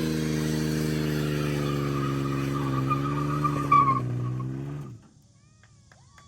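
A vehicle engine running hard under full throttle, its pitch slowly easing down, with tires squealing briefly three to four seconds in. The sound cuts off suddenly about five seconds in, leaving near quiet.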